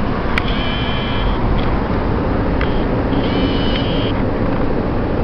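Steady road and wind noise of a moving car, heard from inside the cabin. Two short high, thin tones, each under a second, come through it about half a second in and about three seconds in.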